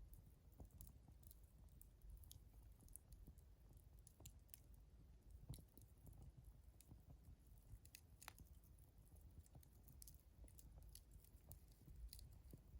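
Faint crackling of a wood fire: scattered small pops and snaps at irregular intervals.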